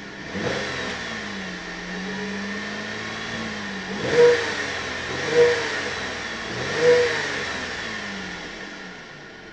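Holden VE Commodore SV6's 3.6-litre LLT V6 revved while stationary in park. It is held at a raised speed, then blipped sharply three times, then falls back toward idle near the end.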